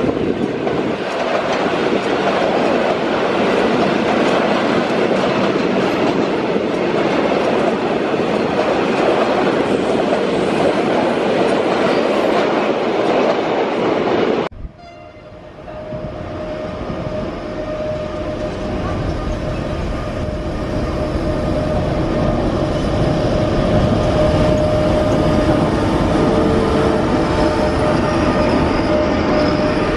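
Freight trains passing at close range. First an autorack car-carrier train rolls by with a steady rumble of wheels on rails, then the sound cuts off abruptly about halfway. After that an electric locomotive hauling container wagons approaches and passes, growing louder, with a steady high tone running over the rolling noise.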